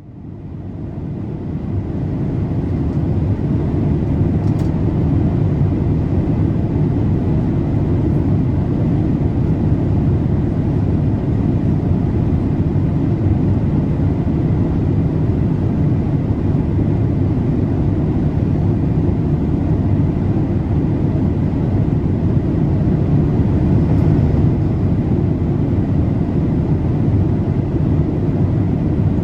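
Boeing 787-8 cabin noise in flight: a steady low rumble of airflow and engines heard from a passenger seat, fading in over the first few seconds.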